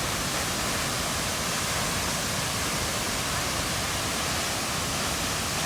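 Waterfall: the steady, even rush of water falling, heard up close.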